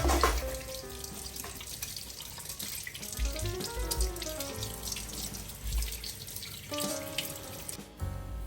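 Water running steadily, as from a tap, under soft background music with a slow melody; both drop out briefly just before the end.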